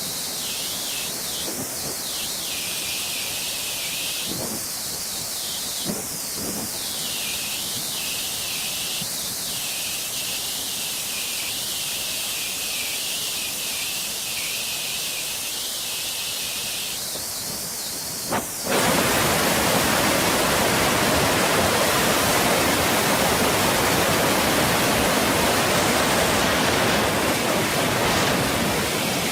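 Saluopa waterfall's rushing water, a steady hiss; about two-thirds of the way through it suddenly becomes louder and fuller, with much more low rumble.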